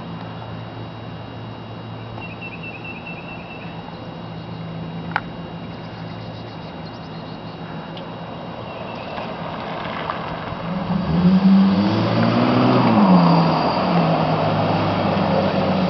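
Chrysler 300M's 3.5-litre V6 through Flowmaster mufflers: a steady low exhaust drone, then from about ten seconds in the car comes up close and much louder, revving up and back down.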